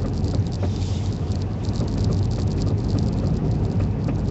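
Road noise inside a truck driving slowly on a snow-covered road on chained tires: a steady low rumble with scattered light clicking and rattling from the tire chains.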